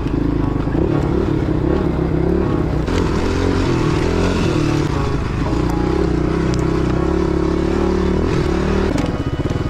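Pit bike engine running while being ridden, its pitch wavering up and down with the throttle.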